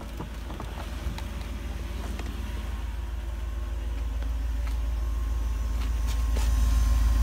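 1981 Mercedes-Benz 380SL's V8 idling smoothly on its first start after years of sitting: a steady low exhaust rumble that grows louder as the tailpipe is approached.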